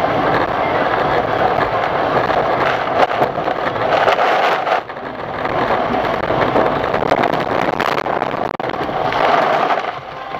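Steady rushing road and wind noise of a moving vehicle, with a brief dip about five seconds in and a split-second dropout near the end.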